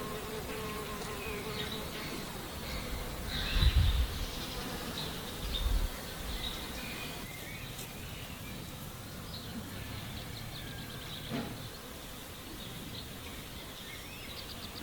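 An insect buzzing close by, with short high chirps and two dull low thumps, the first about four seconds in.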